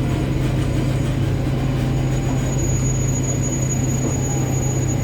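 WAG-9 electric locomotive running at speed: a steady low electrical hum over the rumble of wheels on rails, with a thin high whine that grows stronger about halfway through.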